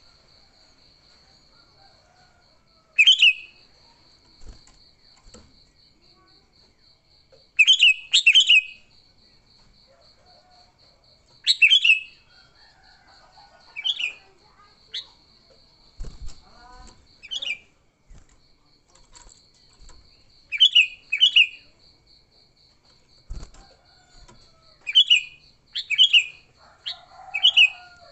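Sooty-headed bulbul (kutilang) giving short, loud calls in bursts every few seconds, some in quick pairs: the agitated 'fighting' call used to lure and rile other bulbuls. A faint steady pulsing high tone runs behind it.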